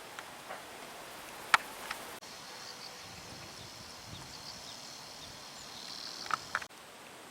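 Insects chirping in a steady high-pitched drone that starts and stops abruptly, with a few sharp clicks, the loudest about a second and a half in and two more near the end.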